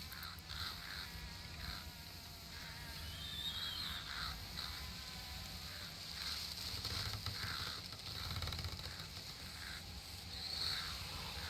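Summer outdoor nature ambience: insects buzzing, with short bird chirps repeating every second or so and a steady low rumble underneath.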